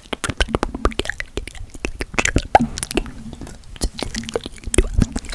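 Close-mic ASMR mouth sounds: nonsense 'alien language' gibberish spoken right up against the microphone. It comes out as rapid, irregular wet mouth clicks and pops with short bits of voice between them.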